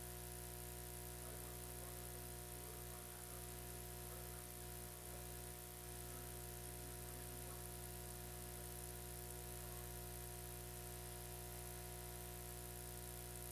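Steady electrical hum and buzz with high hiss, many fixed tones holding unchanged throughout. Faint wavering sound shows under it for the first few seconds.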